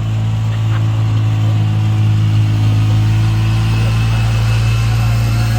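Truck engine running steadily, a deep low drone that holds the same pitch throughout.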